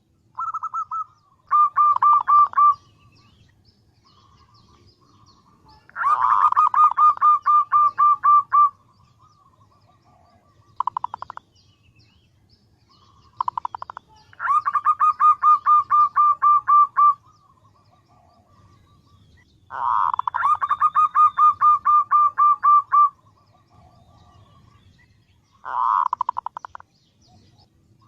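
Female zebra dove (perkutut) calling to attract a male: bouts of quick, evenly pulsed cooing trills, repeated several times with pauses of a few seconds between them.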